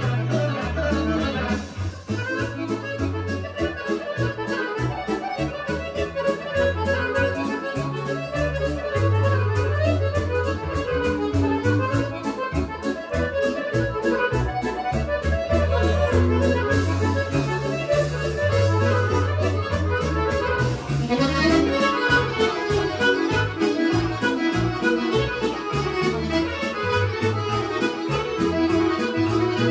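Serbian kolo folk dance music led by accordion over a steady, pulsing bass, with a quick, even beat.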